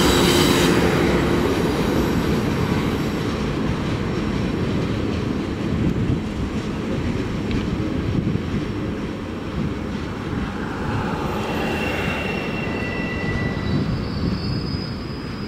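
Freight cars rolling past and away: a steady rumble of steel wheels on rail that slowly fades. High wheel squeals come in near the start and again near the end.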